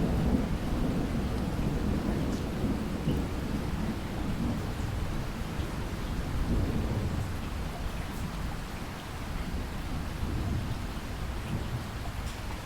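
Thunder rumbling low over steady rain, heaviest in the first few seconds and slowly dying away.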